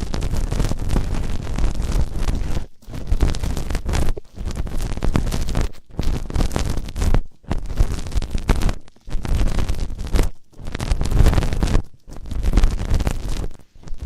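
ASMR ear-cleaning sounds: loud scratching and rubbing right against the microphone, in strokes of a second or two broken by brief pauses.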